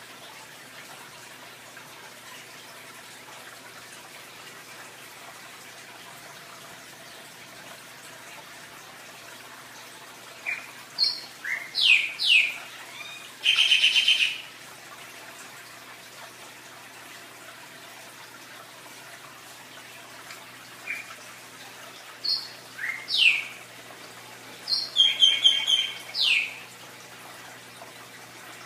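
A bird chirping in two bursts of quick falling whistles and a short buzzy trill, about a third of the way in and again about two-thirds through, over a steady hiss of running water.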